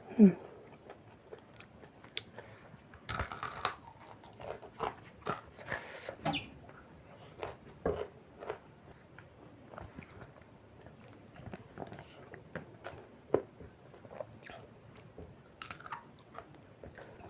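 Close-miked eating: irregular biting, chewing and crunching of food. A brief falling squeak at the very start is the loudest moment.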